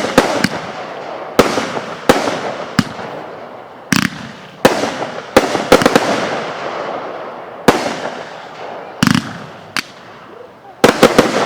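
Consumer fireworks going off: about fifteen sharp bangs at irregular intervals, each trailing off in an echoing tail.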